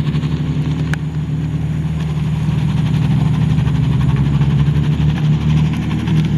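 Car engine idling steadily, with an even low firing pulse and no revving. A single short click sounds about a second in.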